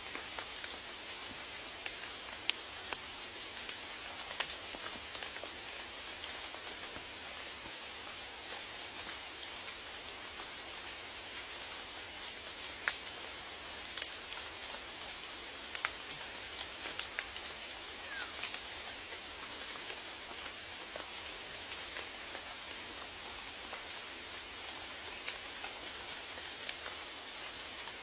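Steady rain: an even hiss of falling rain with scattered sharp ticks of single drops landing, a few of them louder.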